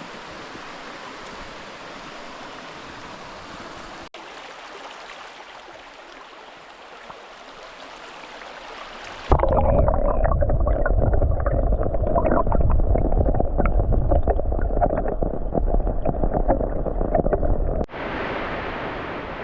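Steady rush of running river water. About nine seconds in, it cuts to a much louder, muffled rumble of rushing water, heavy in the low end, for about eight seconds. It then drops back to a lighter, steady rush.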